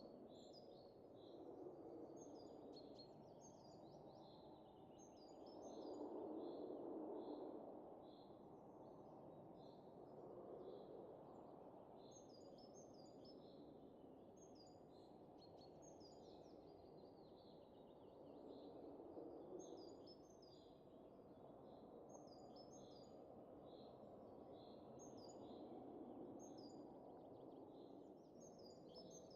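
Faint wind rising and falling in soft gusts, with small birds chirping over it again and again.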